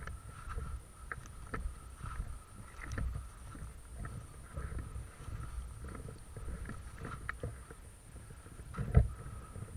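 Uneven low rumble on the microphone with scattered small clicks and knocks, and one loud thump about nine seconds in.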